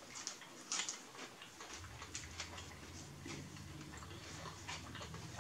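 A person chewing a sub sandwich close to the microphone: irregular wet mouth clicks and smacks. A low steady hum starts about two seconds in.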